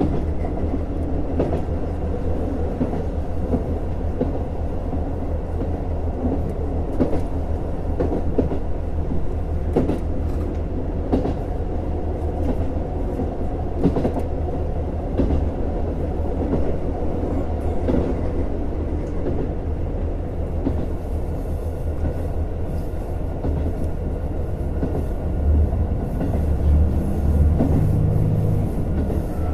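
Cabin running sound of a JR Hokkaido KiHa 150 diesel railcar: a steady rumble of engine and wheels on the rails, with irregular clicks as the wheels pass rail joints. The low engine note shifts in the last few seconds.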